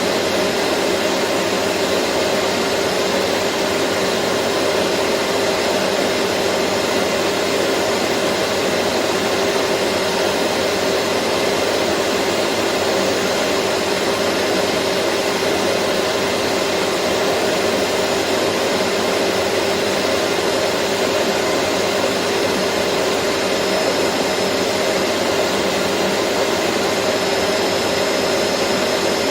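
Vacuum cleaner running steadily, a continuous motor whine and airflow rush with an even hum that does not change.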